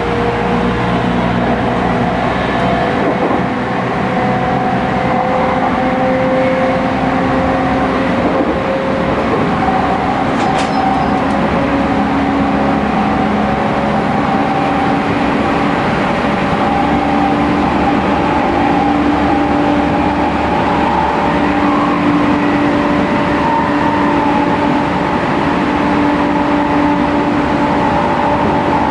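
Running noise heard inside a Tokyu 5000 series motor car: the IGBT-inverter traction motors hum and whine in several steady tones that slowly rise in pitch, over a constant rumble of wheels on rail.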